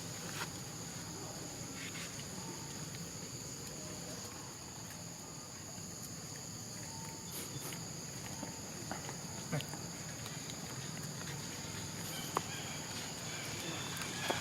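Steady high-pitched insect chirring, like crickets or cicadas, with a few faint clicks and rustles.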